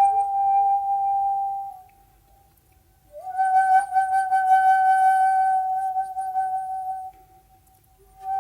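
Solo shakuhachi (Japanese end-blown bamboo flute) playing long held notes on one pitch, each ending in a pause. The second note begins about three seconds in with a quick upward bend into the pitch and some breathy noise, and a third note starts near the end.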